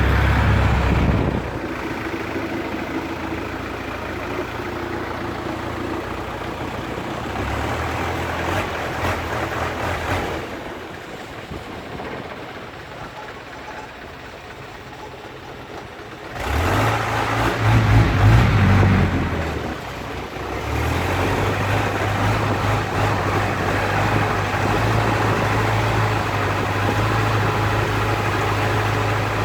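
Boat engine running, its tone shifting with the throttle: it drops to a quiet idle about ten seconds in, revs up loudly around seventeen seconds, then settles into a steady run.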